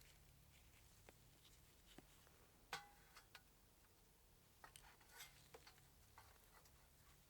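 Faint, scattered clicks and light clinks of small metal parts and hand tools being handled during a moped carburetor repair, with one sharper ringing clink a little under three seconds in, over near silence.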